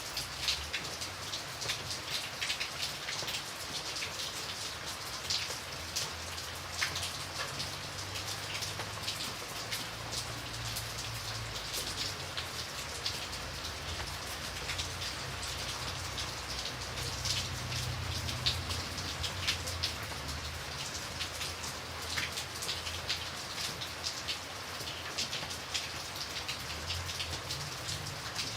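Steady rain falling on a surface, a continuous hiss dotted with many separate drop ticks, over a faint low rumble.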